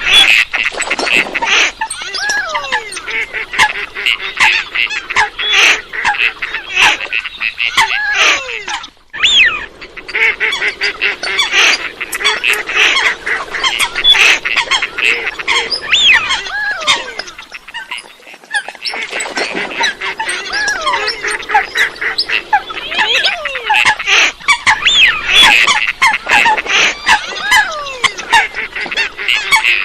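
A flock of coots ('water chickens') calling densely, many short, sharp, overlapping calls and squawks. There is a brief break about nine seconds in.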